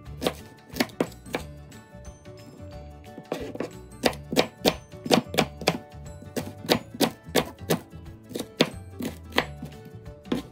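Kitchen knife chopping a red onion on a plastic cutting board: a long run of sharp, irregular knocks of the blade hitting the board, with a short lull about two seconds in. Background music plays underneath.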